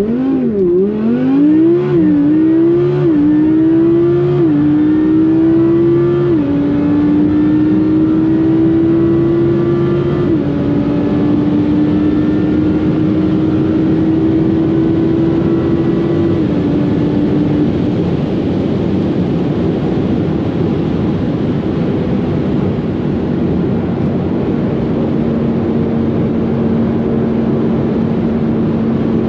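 MTM-supercharged Audi R8 V10 Plus's V10 at full-throttle acceleration, heard from inside the cabin. Its note climbs in pitch and drops sharply at each of a quick series of dual-clutch upshifts, the gaps between them growing longer. From about eighteen seconds in the engine eases off: its note fades under wind and road noise, then settles into a steady lower drone.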